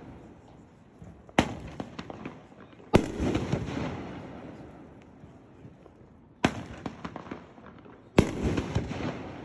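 Aerial fireworks bursting: four loud bangs, each followed by a spray of smaller crackling pops that dies away over a second or two.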